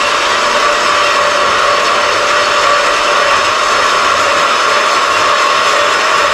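Power tool running steadily while cutting steel, a continuous loud whine with a steady pitch.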